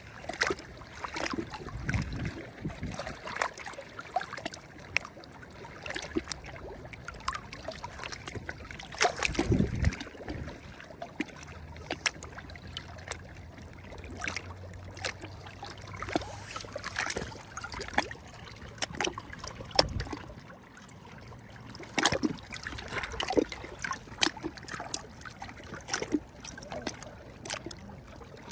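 Small sea waves lapping and sloshing against the shore, with irregular splashes and drips and a deeper wash breaking in now and then. A faint low hum runs in the middle.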